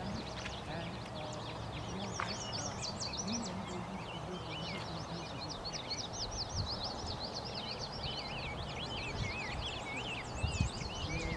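Songbirds singing continuously, many overlapping quick chirps and trills that swoop up and down in pitch, with a brief low thump near the end.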